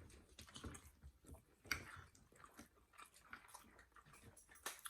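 Faint close-up chewing and mouth sounds of someone eating ribeye steak: irregular soft clicks and smacks, a little louder about two seconds in and near the end.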